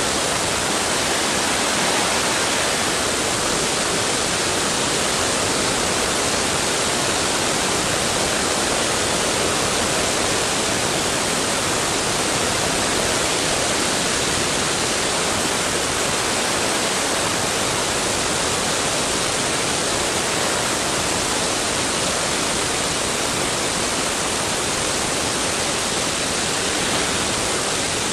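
Steady rushing wind noise from airflow over a tail-mounted camera on a vintage Cessna tailwheel aircraft, an even hiss with no engine tone standing out.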